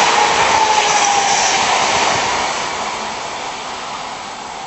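Tokaido Shinkansen bullet train rushing past at speed, with a whine that falls slightly in pitch in the first second or two. After about two seconds the rush fades steadily as the train draws away.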